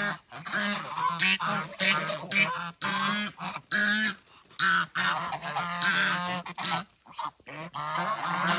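An animal calling over and over in short pitched calls, about two or three a second, with a brief pause about seven seconds in.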